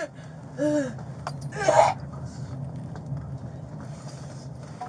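A distressed woman's short whimper about half a second in, then a harsh cough-like burst near two seconds. A steady low hum from an idling vehicle runs underneath.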